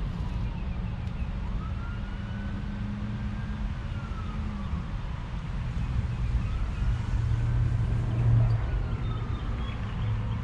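Emergency-vehicle siren wailing in slow rising and falling sweeps, faint over a steady low engine drone.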